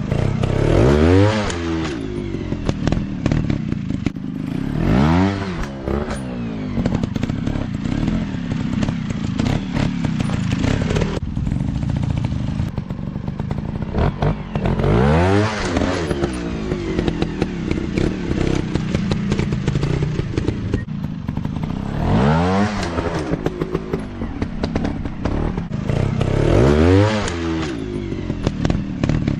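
Dirt bike engines running on a trail ride, the revs climbing and falling again in about five separate bursts, with steady running at lower revs in between.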